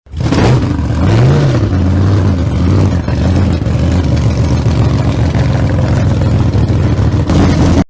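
A vehicle engine running loudly, revving up and back down once about a second in, then running steadily until it cuts off suddenly.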